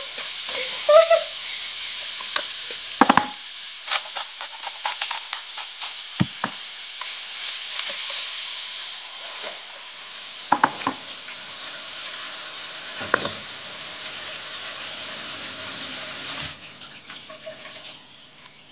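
Pork belly and onions sizzling in a wok, with a wooden spatula scraping and knocking against the pan now and then. The sizzle drops off suddenly near the end.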